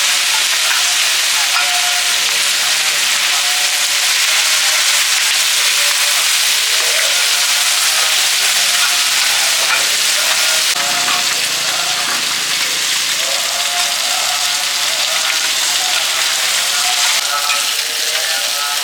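Hot oil sizzling steadily in a pan as food fries.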